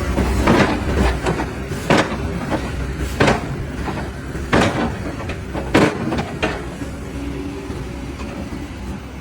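Sharp knocks from construction work, about six at uneven spacing of a second or so, over a steady low rumble.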